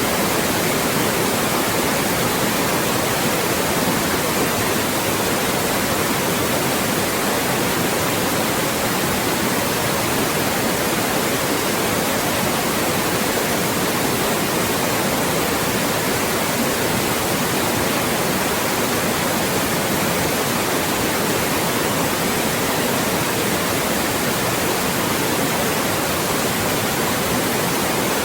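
Loud, steady white noise: an even hiss spread across the whole range, with no change or break.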